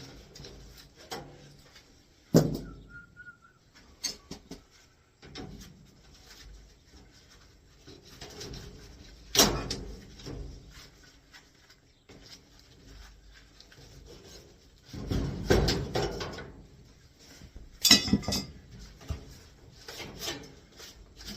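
Irregular knocks, clunks and scraping of hand work tearing out an old air handler's sheet-metal cabinet and panels, with heavier bangs about two and a half, nine and a half, sixteen and eighteen seconds in. A short whistled note sounds about three seconds in.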